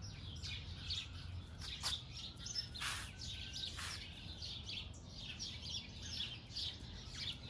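Small songbirds chirping, many short high chirps in quick succession, with a few brief noises near the middle.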